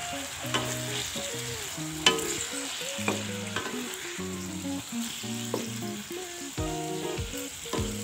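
Chicken in sweet soy sauce sizzling as it stir-fries in a ceramic-coated pan. A spatula stirs and scrapes through it, with scattered sharp clicks against the pan, the loudest about two seconds in. A tune plays in the background.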